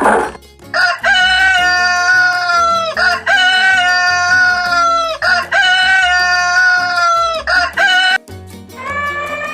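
Rooster crowing three times in a row, each crow about two seconds long and falling in pitch at its end, followed by a couple of short calls. Background music plays underneath.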